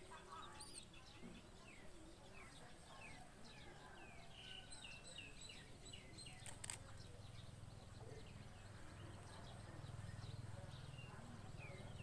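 Faint bird chirping: a string of short, falling high notes, a few a second, over a low hum that grows louder in the second half. A single sharp click sounds a little past the middle.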